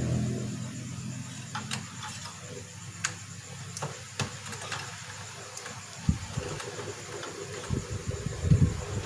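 Light scattered clicks and taps of connector plugs and small plastic parts being worked loose inside a projector, with a few dull low knocks in the second half. A low hum fades out in the first second.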